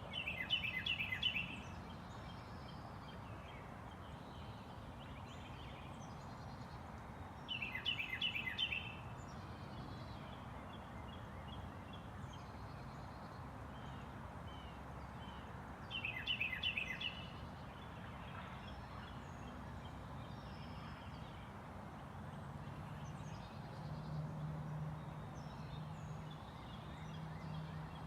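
A songbird repeating a short, fast trilled phrase three times, about every eight seconds, over a steady outdoor background hiss.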